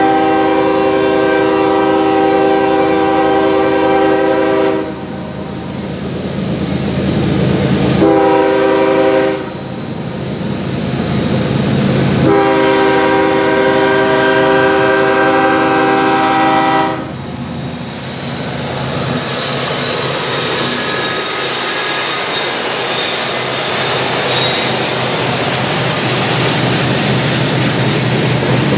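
Locomotive multi-chime air horn sounding a grade-crossing signal: a long blast, a short one, then another long one, each a steady chord. After it stops, the train rolls past with a steady rumble of wheels on the rails and faint wheel squeal.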